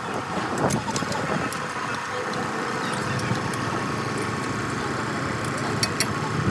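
An engine running steadily at an even pitch, with a few short clicks or knocks over it.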